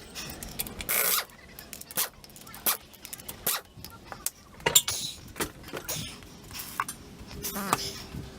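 Metal tools clanking and clicking as work on the wheels begins: a run of sharp irregular clicks and knocks, with a short burst of noise about a second in and more clatter later on.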